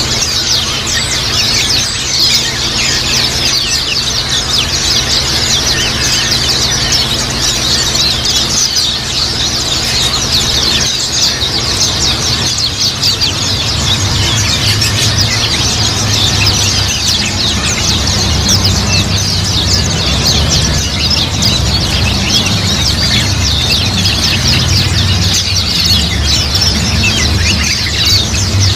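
A flock of white-eyes (pleci) chirping and twittering together in a dense, unbroken chatter of short high calls, over a steady low hum.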